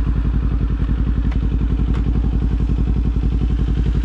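Kawasaki Z400's parallel-twin engine and exhaust running at steady throttle while riding: an even, pulsing note that holds the same revs throughout.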